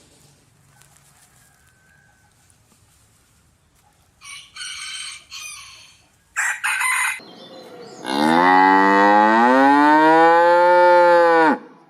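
A cow mooing in one long, loud call lasting about three and a half seconds, starting about eight seconds in. Before it come a few short, harsh animal calls.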